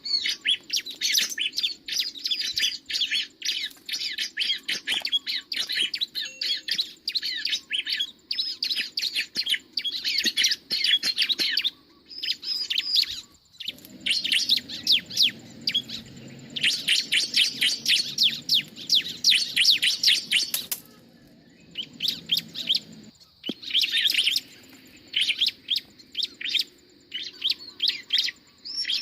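Prinia (ciblek) song: long runs of fast, high, sharp chirps, broken by a few short pauses.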